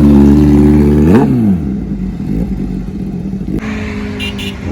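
Honda CBR1000RR Fireblade's inline-four engine held at high steady revs. About a second in, the note rises briefly, then drops sharply in pitch and loudness as the bike passes by. A quieter steady engine note follows.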